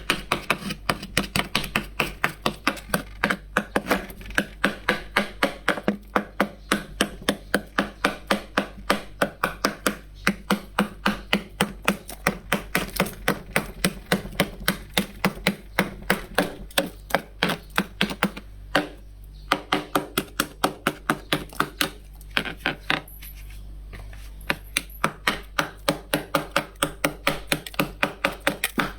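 Frost being scraped off in quick, even strokes, about four crisp scrapes a second, with a short break about three-quarters through.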